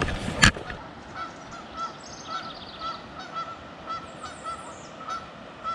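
Birds calling outdoors: one short note repeated about four times a second, with higher songbird chirps over it. A sharp knock sounds just after the start.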